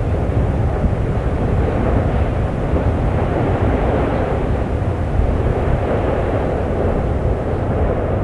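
Steady, continuous rumble of an erupting volcano, with no breaks or separate bangs.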